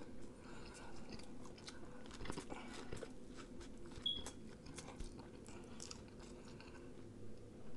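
Faint chewing and mouth sounds of a person eating, with irregular small clicks and crunches.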